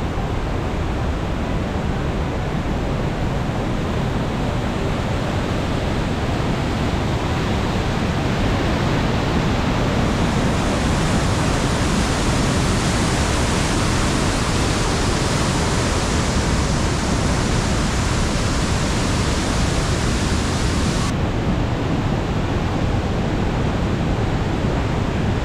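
Rushing mountain stream: a steady, loud rush of water over rocks. It turns brighter and hissier about ten seconds in, then dulls suddenly a few seconds before the end.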